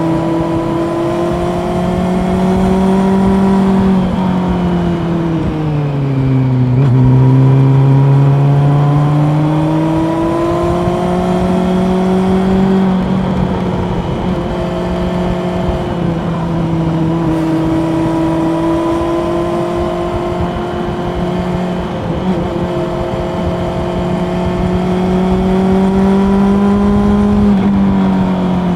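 Honda CB400 Super Four's inline-four engine heard from the rider's seat, pulling along at changing throttle. Its note falls between about four and seven seconds in, then climbs again, with several smaller rises and drops in pitch later on.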